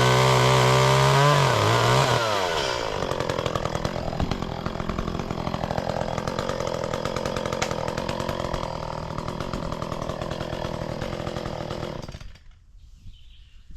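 Two-stroke chainsaw running at high revs, then pulling down in pitch as it bites into wood. It cuts with a rough, chattering sound for about ten seconds and stops abruptly near the end.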